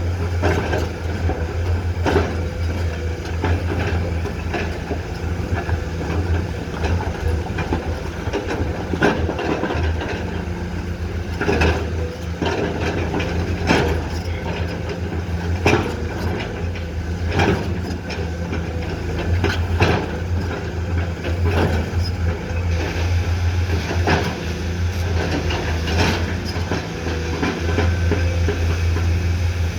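Komatsu PC210 hydraulic excavator's diesel engine running steadily under working load, with repeated sharp knocks and clanks from the machine at work.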